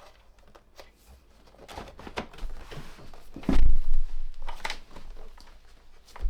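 Hands working on a radio receiver at the bench: scattered clicks and scraping, with a heavy thump about three and a half seconds in and another near the end.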